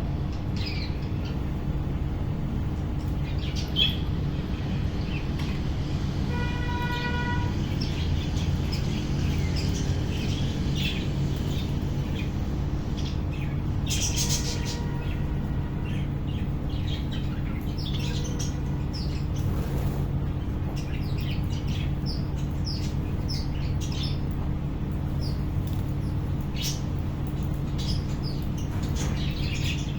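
A budgerigar colony chirping and chattering in scattered short calls, over a steady low hum that runs underneath. A longer held note with a buzzy overtone stack comes about six seconds in.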